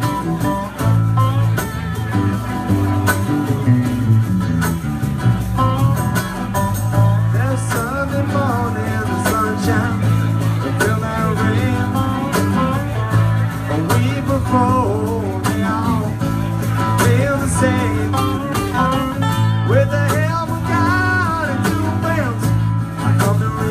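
Live rock band playing an instrumental passage: a guitar plays lead lines with bent notes over bass and drums.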